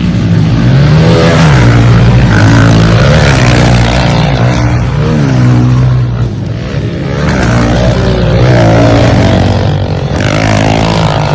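Dirt bike engine running loud and close, its pitch rising and falling again and again as the throttle is worked.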